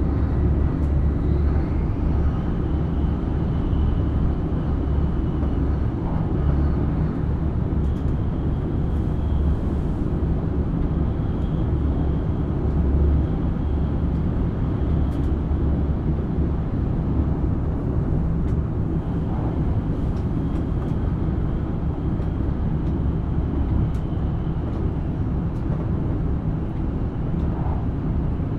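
JR East E7 series Shinkansen running at speed, heard from inside the passenger cabin: a steady low rumble with a faint high whine that shifts in pitch about two seconds in and then comes and goes.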